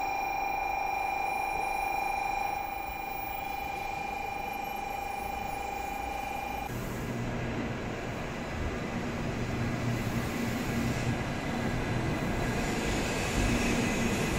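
A steady electronic tone for about the first six and a half seconds, then the 923-series Doctor Yellow Shinkansen inspection train running in alongside the platform. Its rush of wheel and air noise, with a low hum, grows louder near the end.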